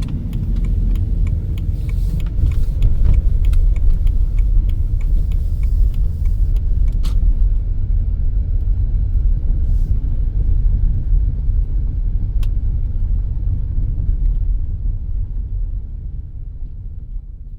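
Van driving slowly over a rough, soft dirt track: a steady low rumble with a scatter of small clicks and knocks over the first several seconds, dying away near the end.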